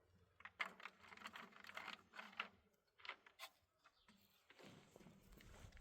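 Soft, irregular clicks and rustles of things being handled, clustered over about three seconds.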